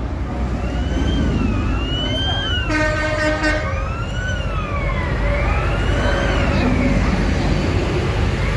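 A siren wailing slowly up and down over the low rumble of running tractor engines, with a quick run of horn toots about three seconds in.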